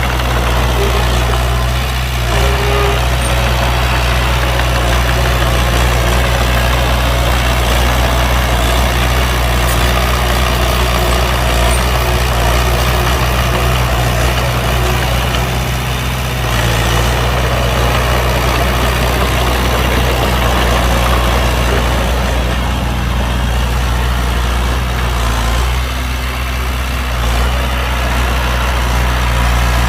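Heavy diesel engine of a dump truck or bulldozer running steadily at a low, even speed.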